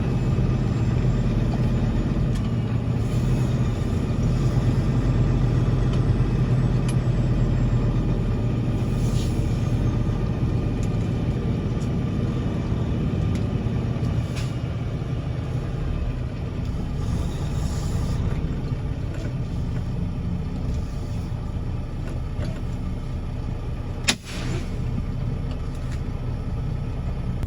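Heavy vehicle engine running steadily, a low even rumble, with one sharp knock about 24 seconds in.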